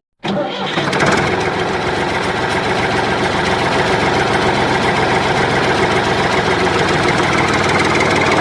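Engine running steadily with a rapid, even chugging, starting abruptly just after a brief silence.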